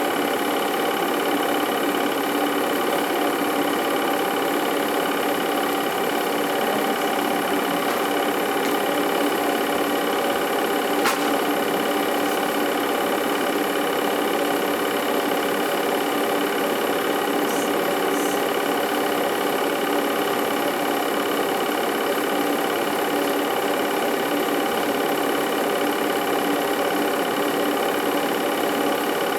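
Home-movie film projector running, a steady mechanical whir and clatter with a constant hum of several pitches, and one brief click about eleven seconds in.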